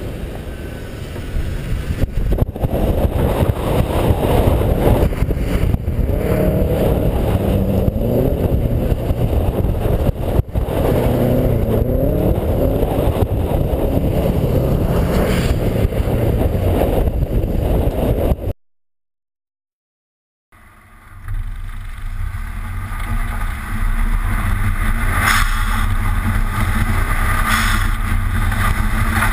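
Subaru WRX STI engine revving up and down repeatedly during hard driving, over loud road noise. After a sudden two-second dropout, a steady engine drone follows, with wind buffeting on a camera mounted outside the car.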